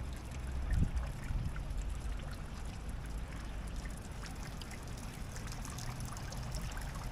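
Rain falling, with many small drops ticking and pattering over a steady low rumble; a brief thump about a second in.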